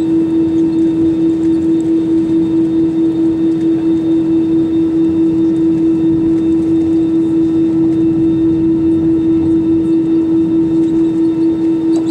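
Airbus A320-200 cabin noise while the aircraft taxis after landing: a steady droning hum with a strong single tone, pulsing evenly about three or four times a second.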